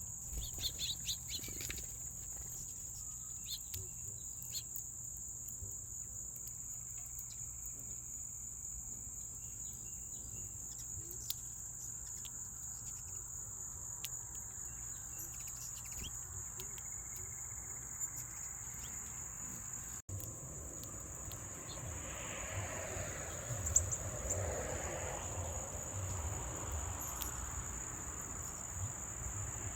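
Steady high-pitched insect chorus, with faint scattered bird chirps. The chorus cuts out for an instant about two-thirds of the way through and then carries on.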